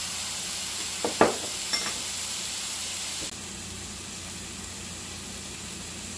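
Pork loin and diced onions sizzling in hot oil in a cast-iron skillet: a steady frying hiss, with a couple of sharp knocks about a second in. The sizzle drops a little just past halfway.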